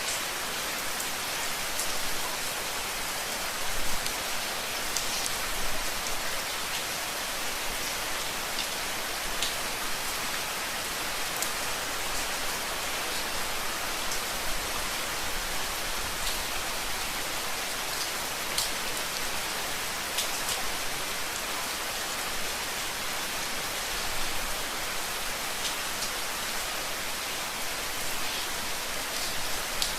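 Steady rain falling on a surface, an even hiss with scattered individual drops ticking now and then.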